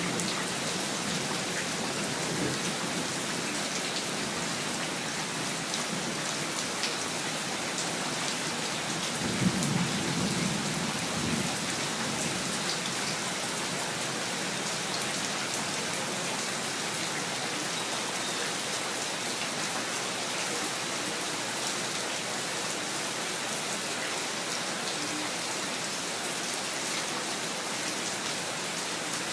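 Steady rain pattering on surfaces, with a brief low rumble of thunder about nine seconds in.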